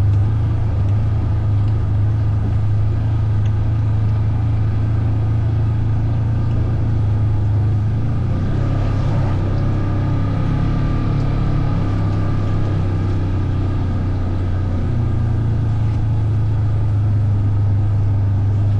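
Engine of a ridden off-road vehicle running steadily at cruising speed. Its low drone dips slightly in pitch about halfway through and picks back up near the end.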